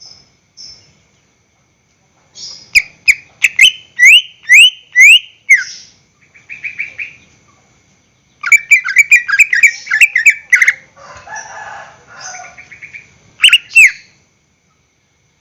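Greater green leafbird (cucak ijo) singing in loud phrases: runs of sharp, down-slurred whistled notes, fast trills and a dense burst of notes. A lower chattering phrase comes about two-thirds of the way through, two loud notes come near the end, and short silent pauses fall between phrases.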